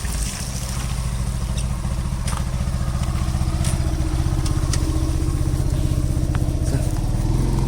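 Motorcycle engine idling steadily, its firing a fast, even low pulse.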